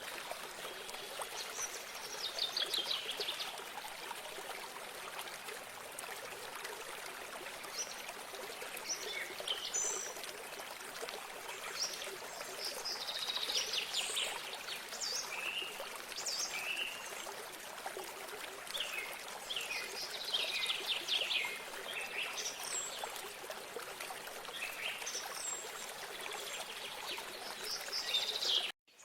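Stream or small spring of water running steadily, with songbirds singing repeated trills and chirps over it every few seconds. The sound cuts out abruptly for a split second near the end.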